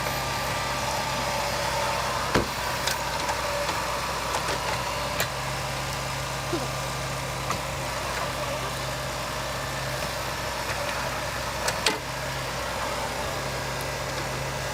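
A vehicle engine running steadily, with a couple of sharp knocks, one about two and a half seconds in and another near twelve seconds.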